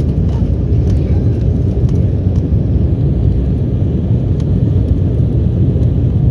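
Steady low rumble of an Embraer E190's GE CF34-10E turbofan engines and rushing air, heard from inside the passenger cabin during takeoff and climb. A few faint ticks sound in the first couple of seconds.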